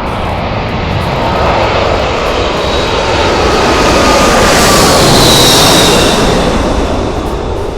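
Boeing 747-400's four Rolls-Royce RB211 turbofans passing overhead. The jet roar swells to a peak about five seconds in, with a high whine that dips slightly in pitch, then fades.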